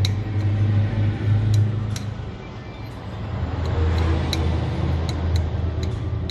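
A metal spoon clinking sharply against the side of a cup at uneven intervals, about one or two clinks a second, over a steady low rumble.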